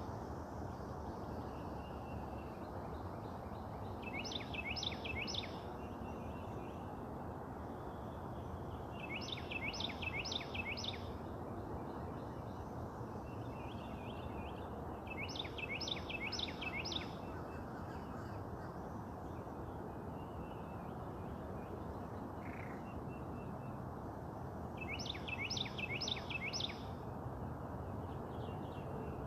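A songbird singing a short phrase of four or five quick, clear sweeping notes, repeated five times with pauses of several seconds between, over a steady low background hum of outdoor noise.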